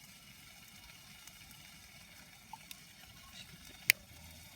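Newly lit fire in a home-made secondary-combustion fire pit, a faint steady hiss with a few small clicks and one sharp wood pop a little before the end.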